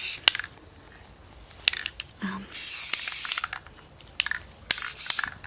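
Aerosol can of red spray paint spraying in three hissing bursts, the longest about a second around the middle, with sharp clicks from the can between bursts.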